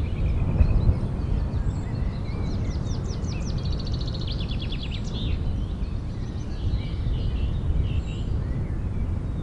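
Outdoor ambience: a steady low rumble with small birds chirping over it, including a rapid trill of evenly repeated notes lasting a couple of seconds near the middle.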